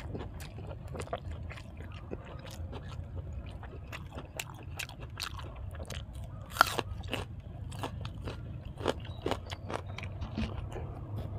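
A person chewing and crunching food close to the microphone, with many short crunches and wet mouth clicks and one sharper, louder crunch a little past halfway, over a steady low hum.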